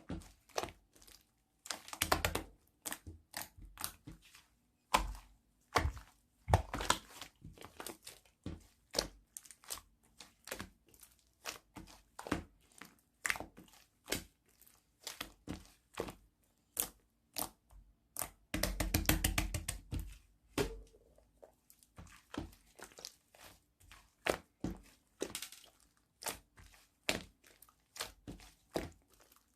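Slime being squished and poked by hand: a run of sharp clicks, pops and crackles, with a dense stretch of rapid crackling about two-thirds in.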